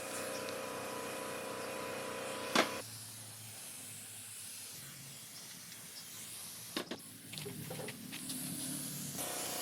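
A steady hiss that stops with a sharp click about two and a half seconds in, followed by a couple of clicks and some rustling; the hiss starts again near the end.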